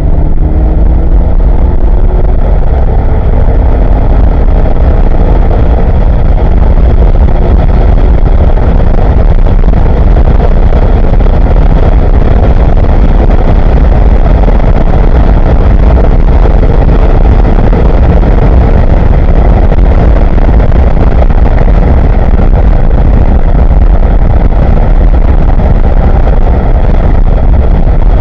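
Corvette C6 Z06's 7.0-litre LS7 V8 at full throttle, heard from inside the cabin, rising in pitch over the first several seconds as the car accelerates hard and upshifting through third, fourth and fifth gear. Heavy wind and road noise mix in at speeds near 150 mph.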